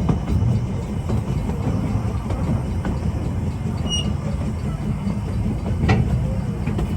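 Narrow-gauge train rolling along, a steady low rumble of wheels on rail with scattered clicks. There is a brief high squeak about four seconds in and a sharp knock near the six-second mark.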